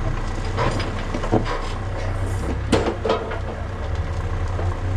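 Backhoe loader's diesel engine running steadily under a handful of sharp cracks and knocks, the loudest about a second in and again near the middle.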